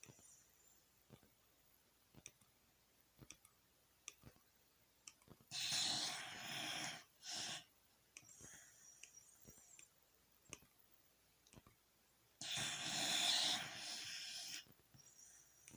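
A sleeping black Shiba Inu snoring: two long, noisy snoring breaths about seven seconds apart, each followed by a fainter hissing breath. Between them come scattered soft clicks of its teeth grinding.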